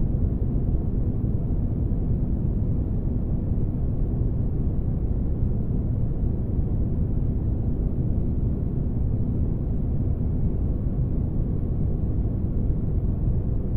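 Sci-fi spaceship ambience made as sleep noise: a steady, deep rumble with no changes, heavy in the bass and dull, with little hiss on top.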